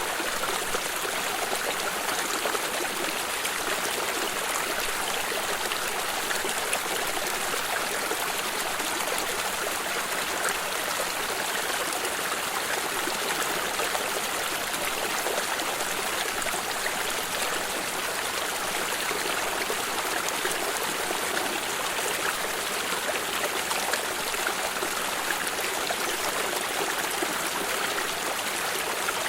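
A stream of water running and trickling, a steady rushing hiss with fine splashing that doesn't change.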